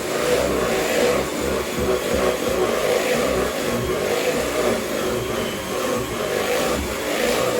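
Electric mixer running steadily, beating cake batter of eggs and self-raising flour, with a gentle rise and fall about once a second as the beaters move through the bowl.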